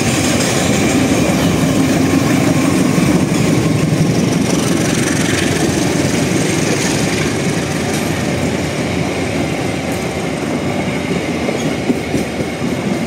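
Train passing, its wheels rattling over the rails as a steady loud noise that eases slightly toward the end.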